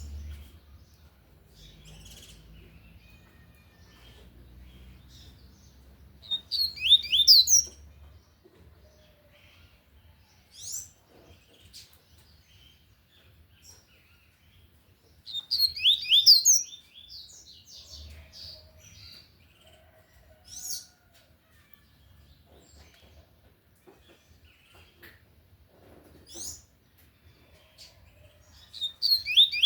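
Coleiro seedeater singing its tui-tui song loudly: three quick phrases of rapid high notes, each a couple of seconds long, spaced about nine seconds apart, with a few short single notes in between.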